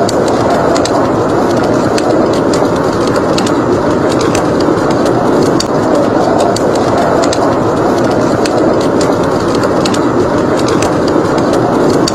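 Blizzard wind blowing steadily, with a wood fire crackling in scattered small pops over it.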